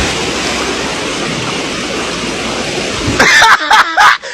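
Steady, loud rushing noise like water or wind, then about three seconds in a person starts screaming in loud, high, wavering cries.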